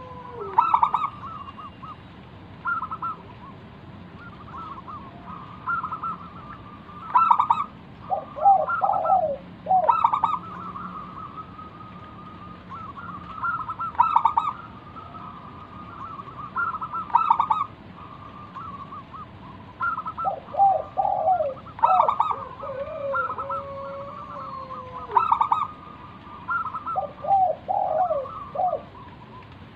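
Zebra dove (perkutut) cooing its rhythmic song, phrase after phrase of quick stuttering notes, with lower falling phrases now and then.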